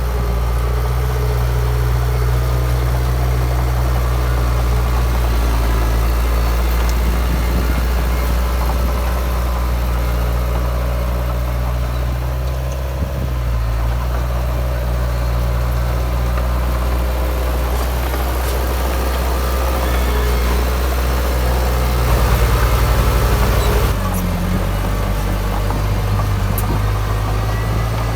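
Heavy diesel earthmoving machinery running steadily at a low, even note, briefly louder for about two seconds near the end.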